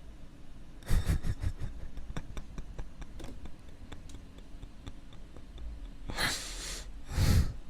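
A cluster of clicks and knocks about a second in, then near the end a sniff and a heavy breath out close to the microphone, from someone who has just teared up.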